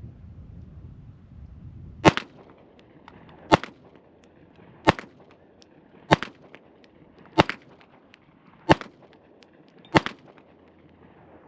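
Springfield Armory Prodigy pistol fired seven times in slow, aimed single shots about 1.3 s apart, starting about two seconds in.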